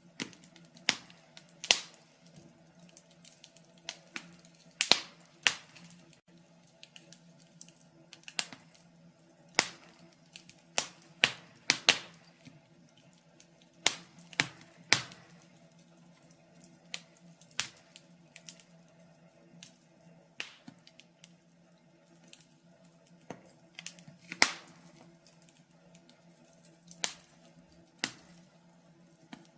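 Wood fire crackling: irregular sharp pops and snaps of burning logs, some louder than others, over a faint steady hum.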